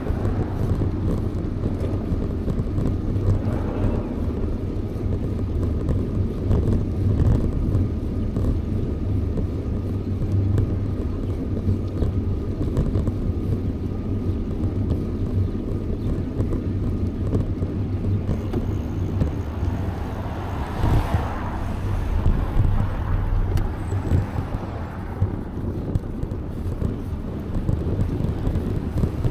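Steady low wind rumble on the microphone while riding a bicycle, with road traffic around it; a louder swell of noise, like a passing vehicle, comes about twenty seconds in.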